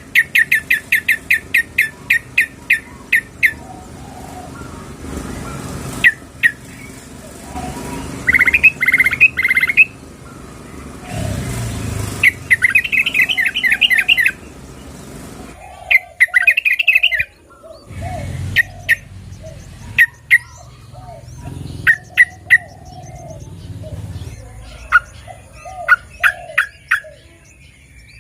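Yellow-vented bulbul (trucukan) calling: a fast run of sharp chirps, then bursts of bubbly chattering notes and scattered single chirps, presented as a female calling to a male.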